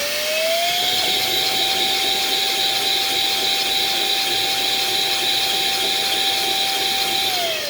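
Small 3D-printed PLA air engine running on blown air, with a high whine that rises as it spins up, holds steady, then starts to fall shortly before the end, over a steady hiss of air.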